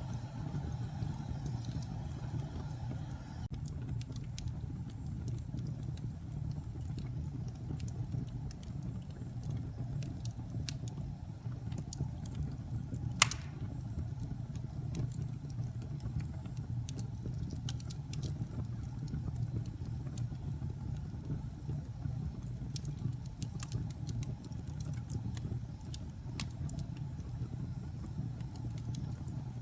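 Wood fire burning in a fireplace: a steady low rumble with scattered small crackles, and one loud pop about 13 seconds in.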